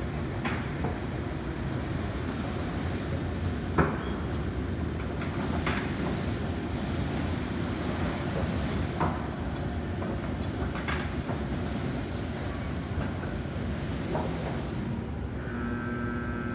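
Car wash equipment running: a steady rumbling wash of noise with a few short knocks scattered through it, and a steady tone coming in near the end.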